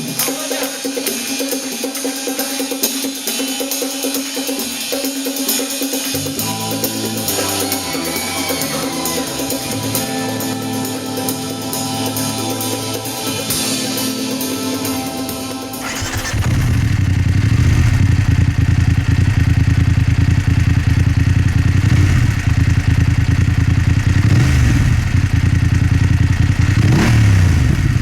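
Background music with a drum beat for the first half. About sixteen seconds in, it cuts abruptly to a BMW F 850 GS's parallel-twin engine running through an Akrapovic exhaust, steady and loud, with a couple of short revs near the end.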